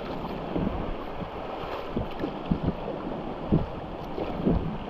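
River water rushing steadily around a whitewater raft, with a few short knocks in the middle and toward the end.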